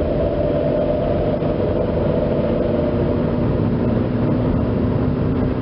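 2004 Chevrolet Impala driving, with a steady growl from a worn driver's side wheel bearing: several humming tones drift slowly in pitch over the road noise.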